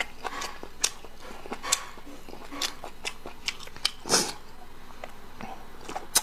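Close-miked eating: chewing with wet mouth smacks and clicks, irregular and spaced through, and one longer, louder squelch about four seconds in.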